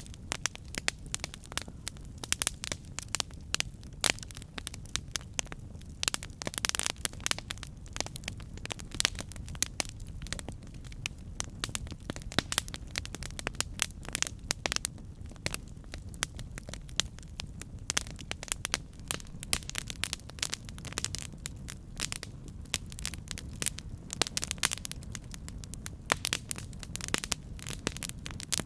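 Campfire burning, with many sharp, irregular crackles and pops over a steady low rumble of the flames.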